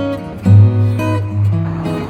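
Acoustic guitar music: plucked and strummed chords changing every half second or so over a strong low bass note that comes in loudest about half a second in.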